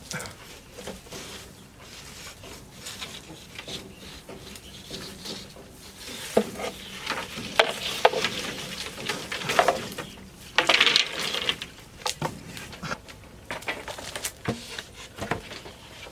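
Irregular knocks and clatter of bamboo poles being handled during building work, with a short stretch of scraping about eleven seconds in.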